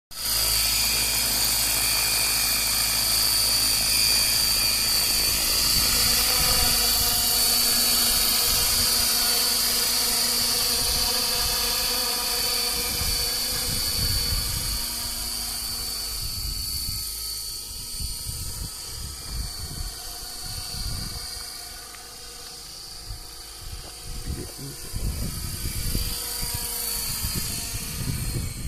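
Model helicopter's motor and rotor whining steadily at a high pitch, loud for the first half and then fading somewhat about halfway through, with irregular low buffeting in the later part.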